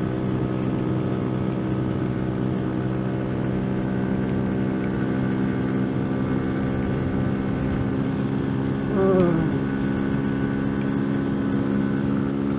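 CFMoto Papio's small single-cylinder engine running under steady throttle at a constant pitch while the motorcycle cruises, with a brief falling sound about nine seconds in.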